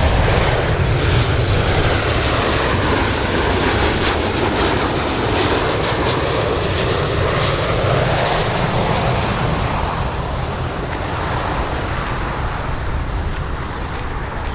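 Airplane engines running loudly, a broad, heavy noise that eases slightly in the second half.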